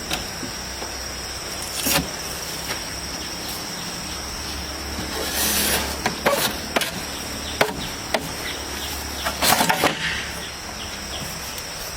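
Insects droning steadily in a high, even tone, with scattered knocks and clatter: a few single knocks, then a cluster near the end.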